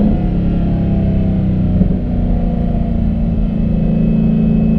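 Dodge Challenger SRT Hellcat's supercharged V8 pulling under way: the pitch climbs, drops at a gear change right at the start, then holds nearly steady in the next gear.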